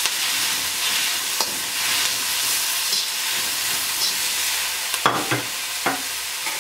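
Soaked dried mushrooms, onion, garlic, ginger and hot pepper sizzling in hot oil in a wok as they are stirred with a spatula. Steady sizzle, with a few sharper scrapes of the spatula on the pan about five to six seconds in.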